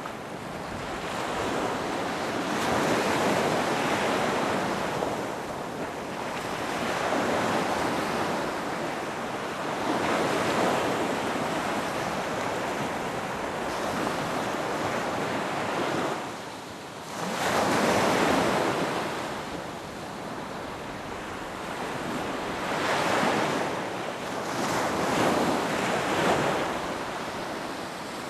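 Ocean waves breaking and washing onto a beach, the surf swelling and ebbing every few seconds, with a brief lull about two-thirds through before a louder wave breaks.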